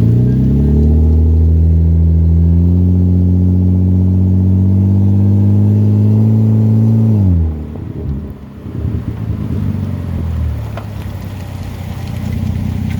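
Exhaust of a naturally aspirated 2.9-litre straight-six (Volvo S80) with the secondary catalytic converter deleted and a DC Sports muffler. The engine climbs quickly and holds a steady, higher pitch for about seven seconds, then drops off sharply to a lower, uneven rumble that rises again near the end.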